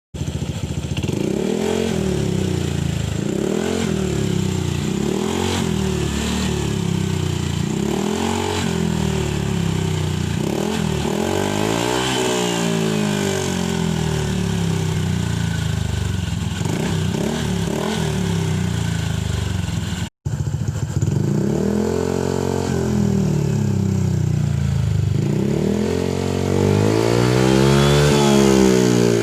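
Honda ADV 150 scooter's single-cylinder engine revved repeatedly through an aftermarket exhaust, in short rises and falls of pitch about every second and a half. The sound cuts out briefly about twenty seconds in, and there is a longer, higher rev near the end.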